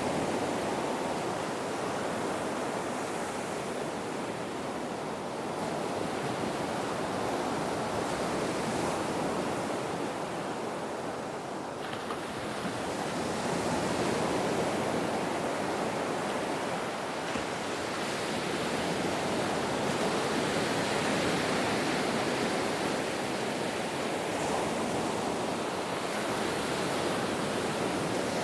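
Ocean waves washing in: a continuous rush of surf that slowly swells and ebbs, dipping about twelve seconds in before building again.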